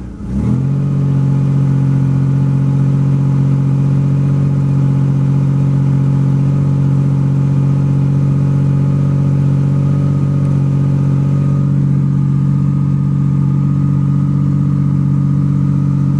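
Ford Bronco II engine running, its speed shifting briefly at the start, then settling into a steady, even idle.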